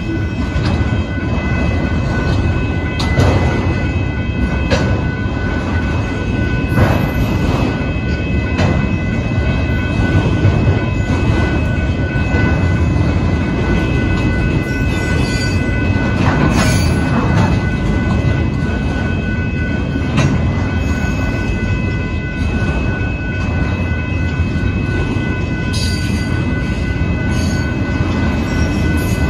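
Union Pacific freight train of autorack cars rolling steadily through a grade crossing: a continuous rumble of wheels on rails with scattered clanks. The crossing-signal bell rings the whole time.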